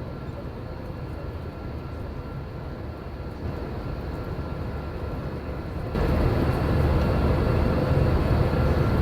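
Jet airliner cabin noise: a steady engine and air rumble with a faint hum, which steps up louder about six seconds in.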